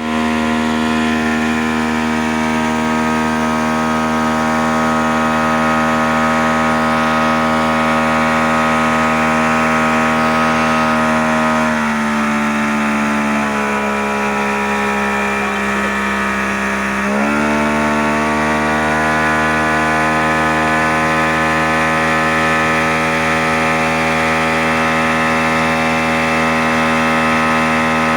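Boat outboard motor running steadily at speed; a little before halfway the throttle is eased in two steps and the pitch drops, then about five seconds later it is opened again and the motor returns to its earlier steady pitch.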